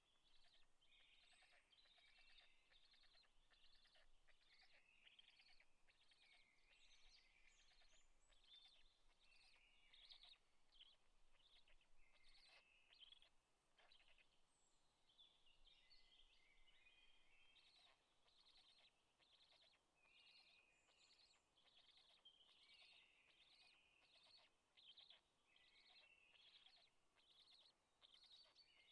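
Faint, high bird chirps in a quick, nearly continuous run, over a soft background hiss.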